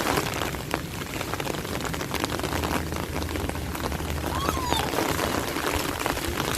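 Steady rain falling, with many individual drops splashing close by.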